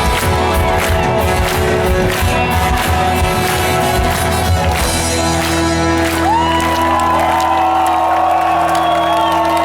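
Live rock band playing loud at a concert: full band with drums, then about halfway through the drums stop and long held notes ring on over a sustained chord.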